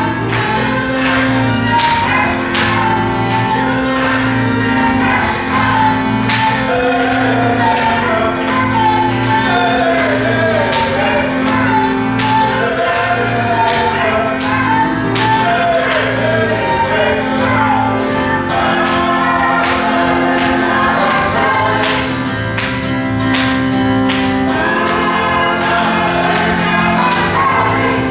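Gospel choir singing with band accompaniment: sustained bass and keyboard notes under the voices and a steady drum beat about two strikes a second.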